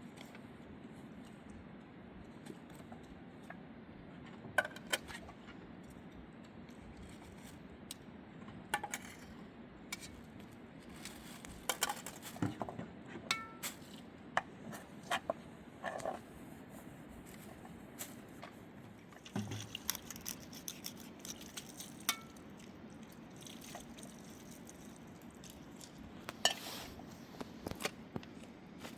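Scattered light clinks and knocks of dishes and glasses being handled, more frequent from about a third of the way in, over a steady low background hum.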